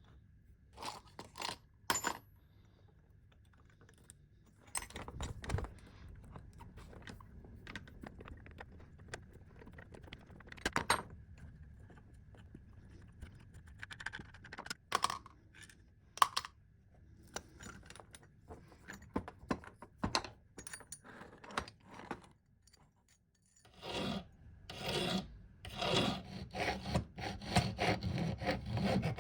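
Hand-tool work on the parts of a vintage coffee grinder: scattered clicks, taps and short scrapes, then near the end a run of rapid back-and-forth scraping strokes.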